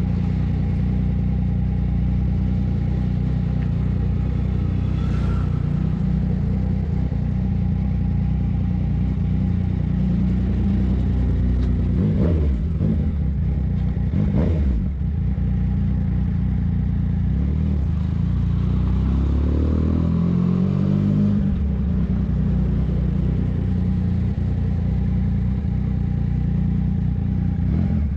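Yamaha MT-09's three-cylinder engine running while riding, steady for most of the time, with the revs sweeping up and down about halfway through and again a little later.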